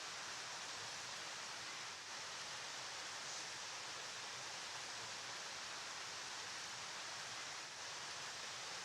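River water flowing steadily: an even, unbroken hiss of rushing water with no separate splashes.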